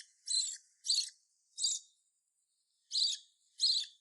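Hand-reared parrot chick calling: five short, high chirps, three in quick succession and then two more after a short pause.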